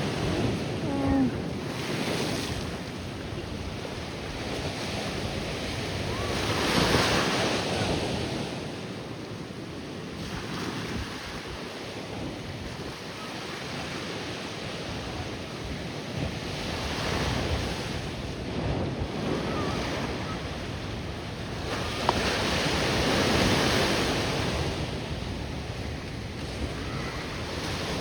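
Ocean surf washing onto the shore, swelling louder three times as waves break, with wind buffeting the microphone.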